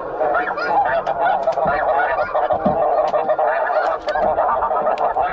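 Geese honking: a dense chorus of many overlapping calls, steady throughout.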